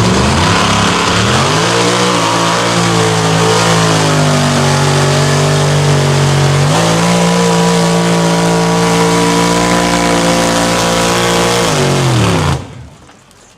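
Mud truck's engine revved hard and held at high revs over a hiss of noise, stepping up a little in pitch about halfway through. Near the end the revs fall away and the sound cuts off abruptly.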